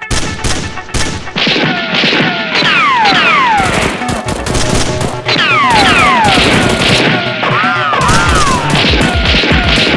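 Rapid bursts of dubbed gunfire sound effects laid over electronic background music, with falling whistling sweeps twice in the middle.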